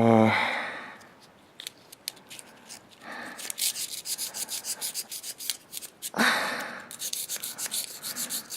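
Brief low hum at the start, then fast repeated scraping strokes of a tool on an aluminium AMC 4.0 piston, breaking loose the dry, caked carbon. The scraping comes in runs of about four to five strokes a second, with one louder stroke about six seconds in.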